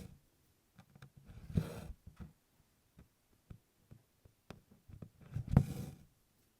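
Embroidery needle and DMC cotton floss being worked through 24-count Congress cloth in tent stitch. There are light ticks as the needle meets the fabric, and a rasping swish of floss drawn through the cloth twice, about a second and a half in and again about five and a half seconds in.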